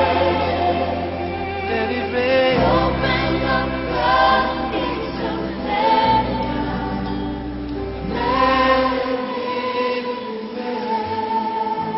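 Choir singing long held notes in Christian worship music, over a sustained bass that moves to a new note every few seconds.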